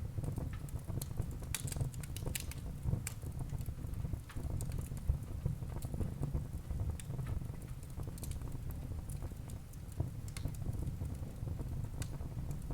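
Wood fire burning in a fireplace: irregular crackles and snaps of the burning wood over a low, steady rumble.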